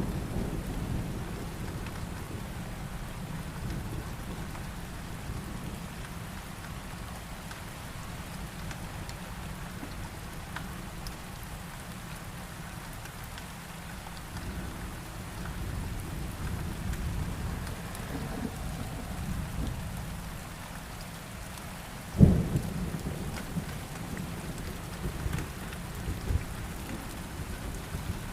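Steady rain with low rumbling thunder, and a sharp clap of thunder about three quarters of the way through, followed by a few smaller cracks.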